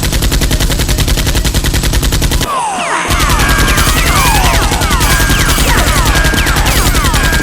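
Sustained rapid automatic gunfire, a dubbed-in machine-gun sound effect, loud and fast, with a brief break about two and a half seconds in. After the break the firing resumes with many short high whines sliding up and down over it.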